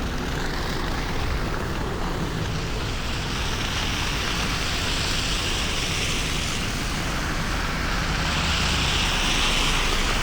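Street traffic on a snowy road heard from a moving bicycle: a steady rush of road and wind noise, with tyre hiss from passing vehicles swelling twice.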